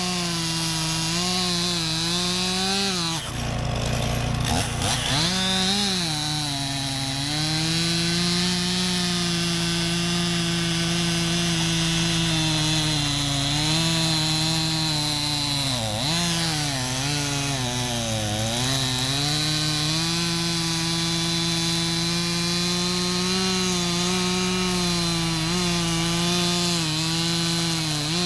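Stihl two-stroke chainsaw running at high revs while bucking logs, its engine pitch sagging as the chain loads in the wood and climbing back as it frees. About three seconds in the revs drop off briefly and then rise again.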